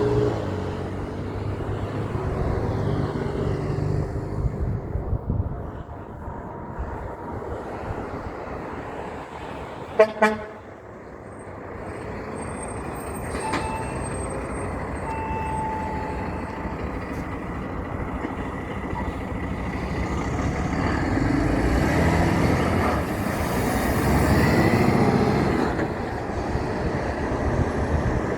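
Big trucks passing on a road: an engine runs at the start, a truck horn gives one short, loud blast about ten seconds in, and another truck's engine and tyre noise builds and fades near the end.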